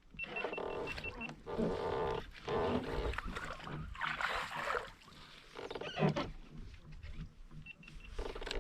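Baitcasting reel being cranked fast in repeated bursts of about a second each, a gear whir, as a hooked bass is reeled toward the kayak. A quick run of high electronic beeps sounds near the start and again near the end.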